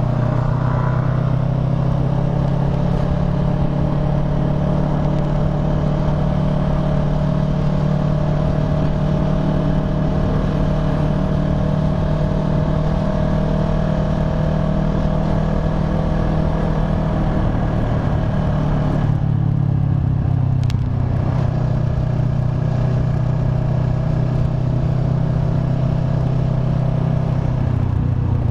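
Kawasaki ER-6n's 649 cc parallel-twin engine running steadily at cruising speed while riding, with a steady tone over the engine's low drone. About two-thirds of the way through the engine note shifts, then runs steadily again.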